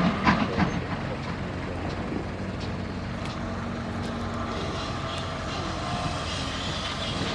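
A train running along the line: a few sharp beats in the first second fade into a steady low rumble.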